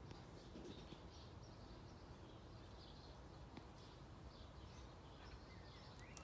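Faint outdoor ambience: distant birds chirping on and off over a low steady rumble.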